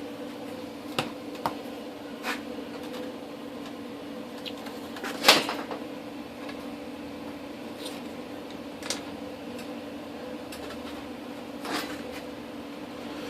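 Steady hum of a running machine, with scattered metallic clicks and knocks as parts are handled on a work table. The loudest knock comes about five seconds in.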